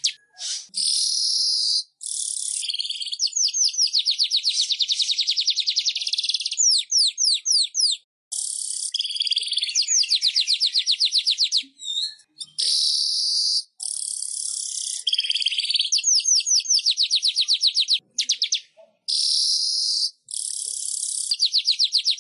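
Manyar (weaver bird) song: fast, high ticking trills and buzzy, insect-like chatter, repeated in runs of one to a few seconds that start and stop abruptly.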